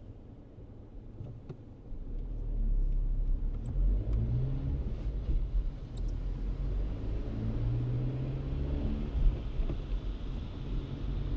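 Car pulling away and accelerating: a low engine and road rumble comes up about two seconds in, with the engine note climbing twice as it speeds up.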